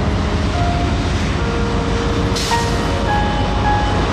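A train running past with a steady low rumble, and a short hiss about two and a half seconds in. Background music with held notes plays over it.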